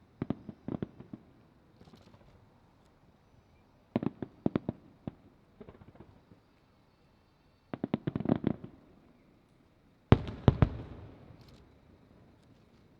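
Aerial fireworks shells bursting overhead in four clusters of sharp bangs and crackles a few seconds apart. The loudest cluster comes about ten seconds in, with a rumble that trails off after it.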